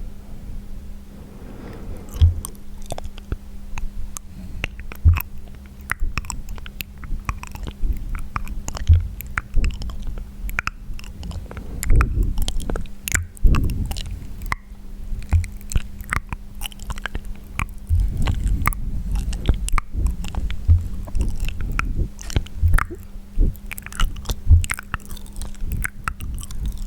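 Wet mouth sounds made close to the microphone: irregular clicks, pops and smacks of tongue and lips, with no talking.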